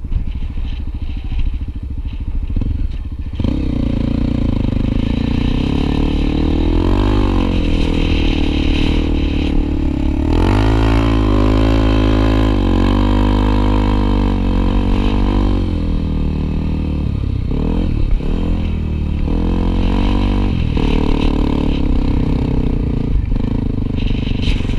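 Honda XR250 Tornado single-cylinder four-stroke motorcycle engine running while riding. It gets louder a few seconds in, and its pitch rises and falls repeatedly with throttle and gear changes.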